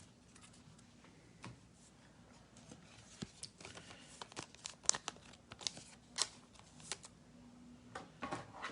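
Faint crinkling and rustling of trading cards and their plastic or foil pack wrappers being handled: scattered short crackles and clicks that start about three seconds in.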